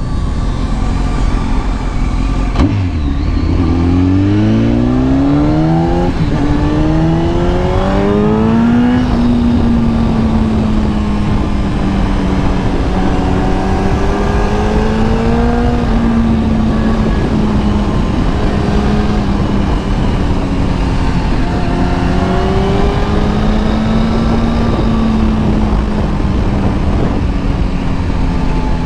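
Kawasaki ZX-10R inline-four engine pulling hard: after a brief drop in revs about two seconds in, its pitch climbs steadily for several seconds. It then holds a steady cruise with small rises and falls in revs, over constant wind rush.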